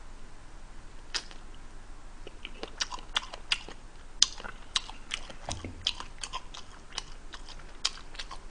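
A person chewing a mouthful of chicken and chewy rice cakes, with wet mouth smacks and clicks. They are sparse at first and come several a second from about two and a half seconds in.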